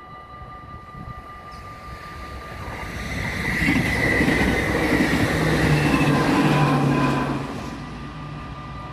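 An NS ICM (Koploper) electric intercity train passes over a level crossing. Its wheel and rail rumble grows from about two seconds in, is loudest in the middle and dies down near the end. The crossing's warning bells ring on steadily underneath.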